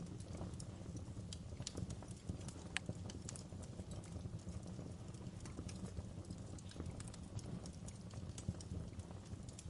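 Wood fire burning in a fireplace: a steady low rumble of flames with irregular crackles and small pops of the burning logs, one sharper pop about three seconds in.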